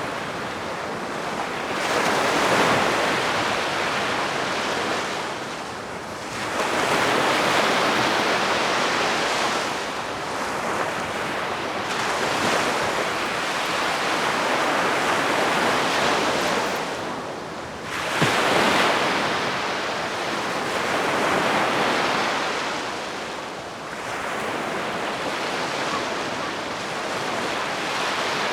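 Calm sea waves breaking and washing on the shore, the surf swelling and falling every four to six seconds.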